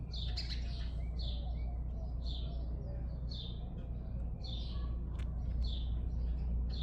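Baby bird chirping: a run of short, high calls at about two a second. A steady low rumble runs underneath.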